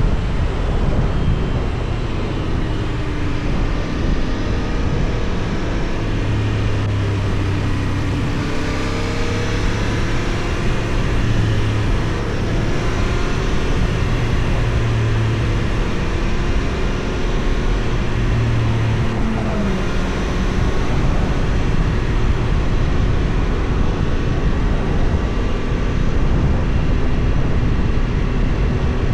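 Benelli Tornado 550's 554 cc parallel-twin engine running under way, its pitch rising and falling with throttle and gear changes. Heavy wind noise on the action camera's microphone largely buries it.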